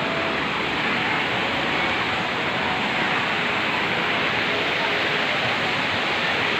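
Jumog waterfall: a steady rush of falling water, even and unbroken.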